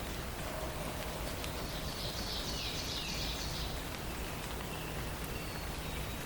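A songbird sings a short high phrase lasting about two seconds, with a few faint high notes near the end, over a steady background hiss.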